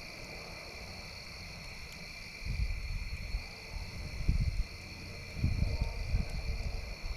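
Crickets chirring steadily as a high, even drone, broken three times by loud low rumbles lasting about a second each.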